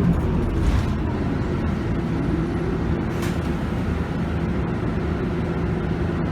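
Scania DC9 five-cylinder diesel engine of a Scania K280UB bus running steadily, heard from inside the bus, with an even low rumble and a steady hum.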